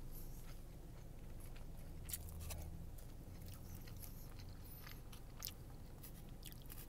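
A person chewing and biting food close to the microphone, with scattered soft wet mouth clicks, over a low steady hum.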